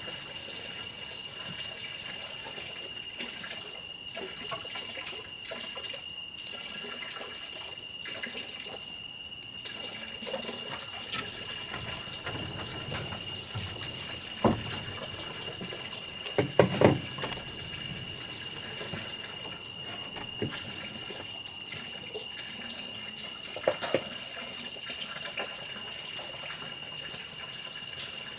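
Running or pouring water with a thin, steady high-pitched tone throughout. A few short knocks come in the second half.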